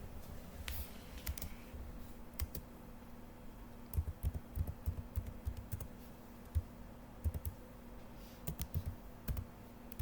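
Irregular light clicks and taps in small clusters, like keys or buttons being pressed, over a faint steady hum.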